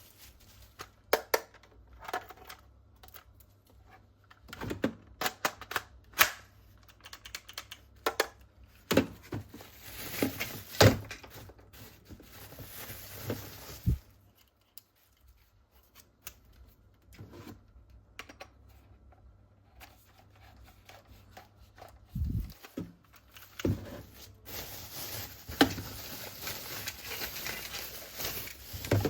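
Plastic toys and their packaging being handled: irregular sharp clicks and knocks, with stretches of rustling. There is a quieter lull about halfway through.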